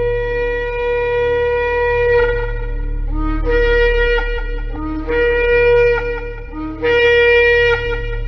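Shofar (ram's-horn trumpet) blowing: a long held blast that ends about two seconds in, followed by three shorter blasts, each starting on a lower note and jumping up to a higher one.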